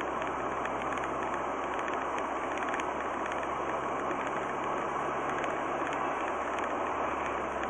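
Steady road and engine noise of a moving car, recorded through a dash cam's microphone, with a faint low engine hum that fades about six seconds in.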